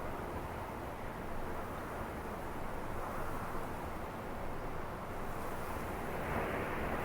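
Steady rushing wind of a snowstorm, a constant noise with a low rumble underneath.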